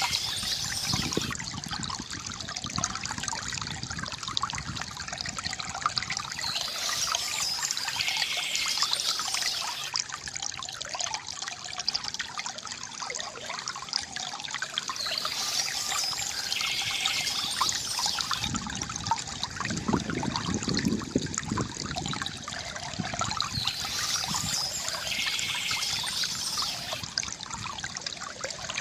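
Water trickling and gurgling steadily from a bamboo fountain, with birds chirping in short phrases that return about every eight seconds.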